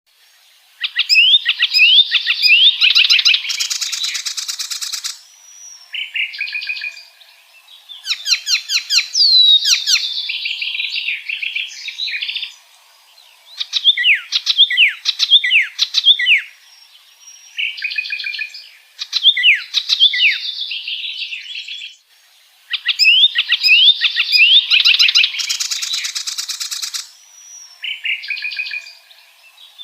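Icterine warbler singing a long, varied song of quick rising and falling whistles, chattering runs and a harsh raspy churr, in phrases a few seconds long with short pauses between.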